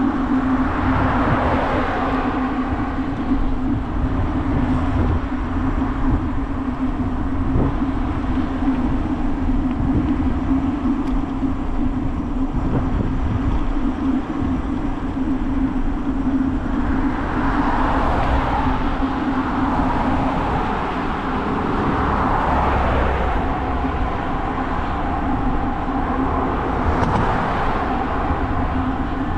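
Wind rumbling on the microphone of a bicycle coasting downhill, with a steady hum under it and road traffic passing. The traffic noise swells near the start and several times in the second half.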